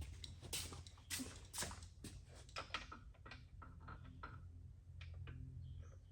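Faint, irregular clicks and knocks of hand tools on metal as the main bearing cap bolts of a Cummins ISX engine block are worked loose, over a low steady hum.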